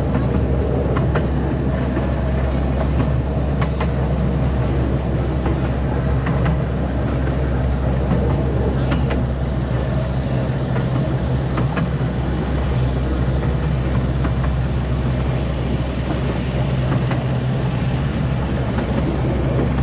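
Small amusement-park ride train running along its track: a steady low rumble with scattered short clicks from the wheels and carriages.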